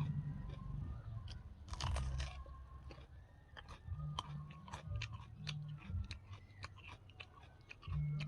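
Close-miked chewing and crunching of food, with many small, irregular mouth clicks.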